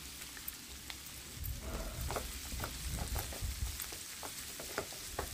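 Sliced onions and chillies frying in mustard oil in a nonstick pan, sizzling steadily. From about a second and a half in, a wooden spatula stirs them, with scattered clicks and taps against the pan.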